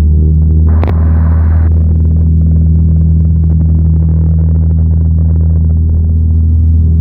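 Cessna 172's piston engine and propeller at full takeoff power, a loud, steady drone inside the cockpit. About a second in there is a click and a brief burst of hiss.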